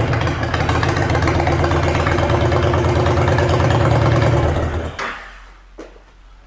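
2010 Honda Fury 1300's V-twin engine idling steadily, then shut off about five seconds in; a few faint clicks follow.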